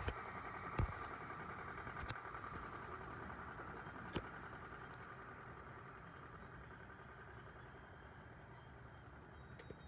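Vehicle noise at a railroad grade crossing fading steadily away, leaving faint bird chirps and a couple of sharp clicks.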